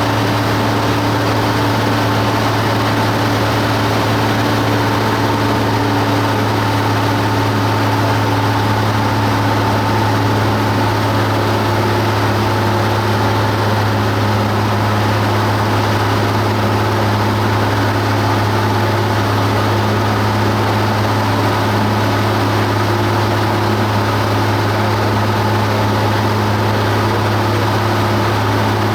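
Cessna 172 Skyhawk's piston engine and propeller running steadily. It is a loud, even drone with a deep hum and a few fainter steady tones above it.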